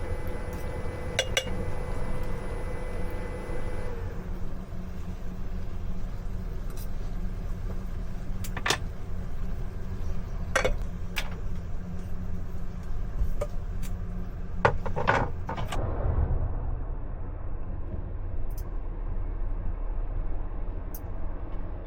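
Dishes and utensils clink a few times over a steady low hum. A faint steady tone stops about four seconds in.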